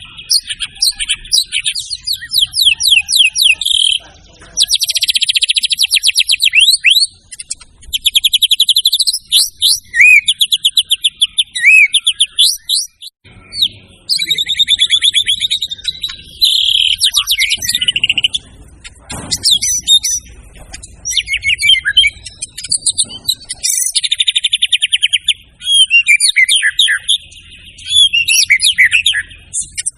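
White-rumped shama (murai batu) singing in full voice: a string of loud, varied phrases of rapid trills and chattering notes, each one to three seconds long, with short pauses between them. This is the bird running through its whole repertoire of song material.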